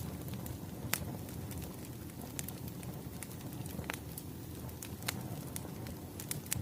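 Wood fire crackling: a steady low rumble and hiss of burning logs, with sharp pops every second or so.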